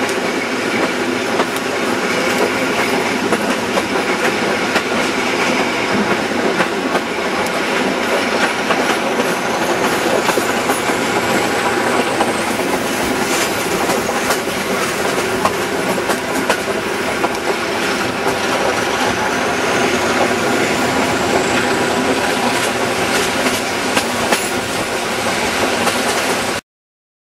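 Passenger train running along the line, heard from an open window: wheels clicking over the rail joints and a rush of air over a steady drone from the SP42 diesel locomotive hauling it. The sound cuts off abruptly near the end.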